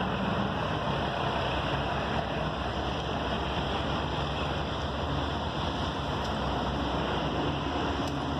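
Freight train running past: a steady rumble with a faint, steady engine hum under it.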